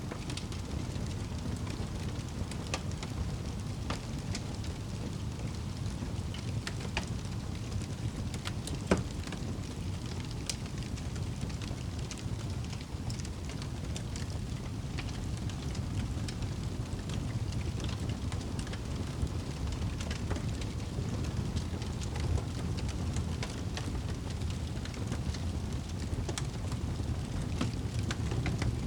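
Wood fire burning in a fireplace: a steady low rumble of the flames with scattered sharp crackles and pops, one louder pop about nine seconds in.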